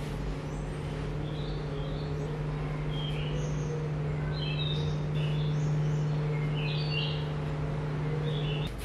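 Birds chirping in short high calls over a steady low hum that stops near the end.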